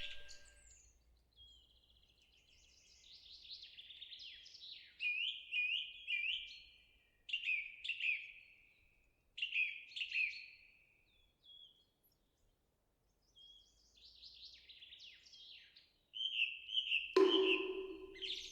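Small birds singing in short, repeated chirping phrases that sweep up and down in pitch, with brief pauses between. A temple wind chime's ringing dies away at the start, and about a second and a half before the end a wooden moktak starts being struck, each stroke sharp with a hollow ring.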